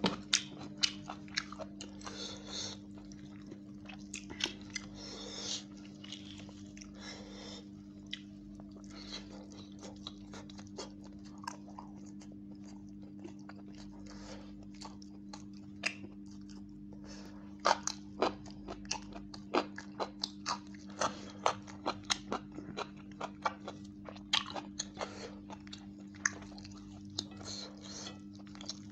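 Close-up eating of chicken roast and basmati rice by hand: wet chewing and biting with many sharp mouth clicks, and fingers squishing rice and chicken on a steel plate. A steady low hum runs underneath.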